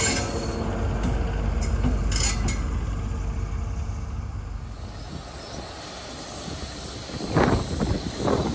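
Class 43 HST train running: a low rumble that slowly dies away, with a couple of brief high-pitched squeaks about two seconds in. Near the end come loud, irregular rushing bursts.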